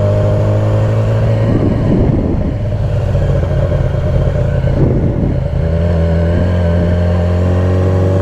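Yamaha R6 inline-four sport-bike engine running at a steady pitch, which climbs slightly near the end. There are two short bursts of rushing noise, about one and a half and five seconds in.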